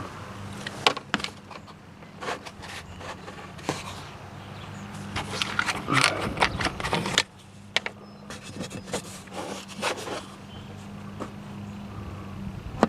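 Irregular clicks, knocks and scrapes of parts and tools being handled on a riding mower, over a steady low hum.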